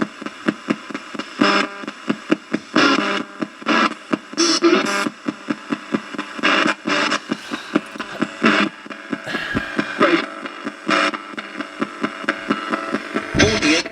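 A spirit box sweeping through radio stations: a rapid, uneven chopping of static bursts, several a second, broken by brief fragments of broadcast sound.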